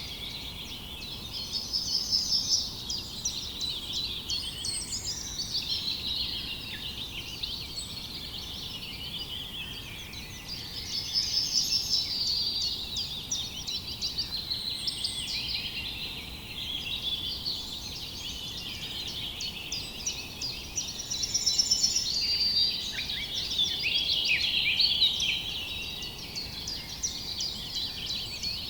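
A dense chorus of many small birds chirping and trilling over one another without pause. It swells louder three times, near the start, in the middle and toward the end.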